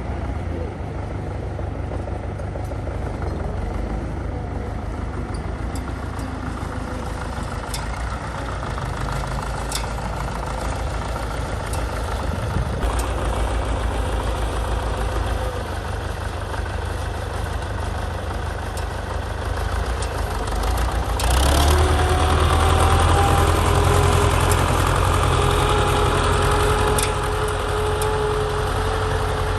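Old tractor engine running steadily. About 21 seconds in it grows louder and its note rises.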